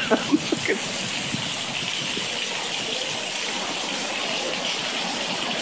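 Heavy rain pouring down in a thunderstorm: a steady, even hiss that is still building in intensity before the hail arrives.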